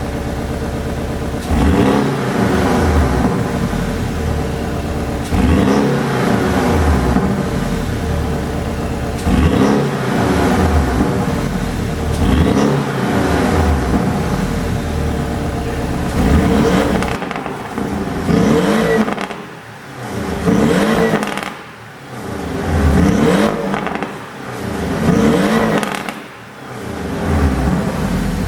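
Porsche 718 Boxster S turbocharged flat-four, tuned for exhaust pops, idling and being revved repeatedly in place. The first half has longer revs about every four seconds; the second half has quicker blips that fall away sharply. Crackles and pops come from the exhaust as the revs drop.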